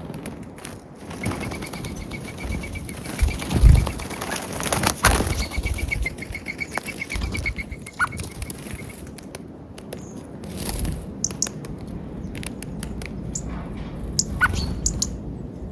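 Wild birds flapping their wings as they land and take off at a peanut feeder, with a burst of flapping a few seconds in. A fast, even ticking note repeats twice in the first half, and short chirps and clicks follow later.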